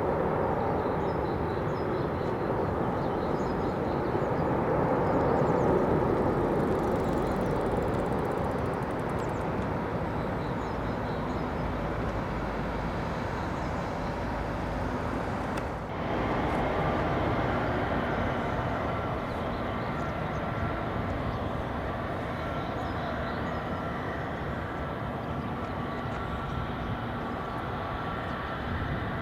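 Jet airliner engines running at high power as an aircraft passes close by, a steady rushing noise that swells to a peak about six seconds in. About halfway through the sound changes abruptly to a second, steadier stretch of engine noise with a faint whine.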